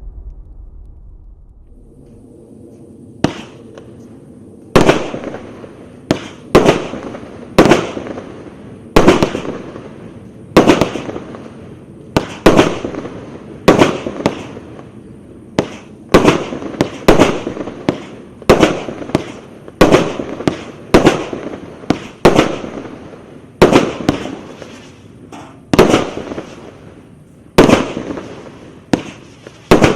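Firework cake (Eurostar 'Supernova Box') firing a long series of shots, each a sharp bang with a short fading crackle, at roughly one a second, starting about three seconds in.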